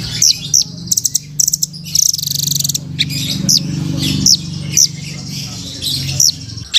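Velvet-fronted nuthatch (rambatan) calling: repeated short, sharp, high chirps that drop quickly in pitch, with a couple of fast trills, over a low steady hum.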